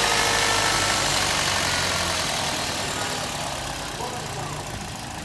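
Toyota Corolla GLi engine running just after being started, its sound slowly dying down over the few seconds.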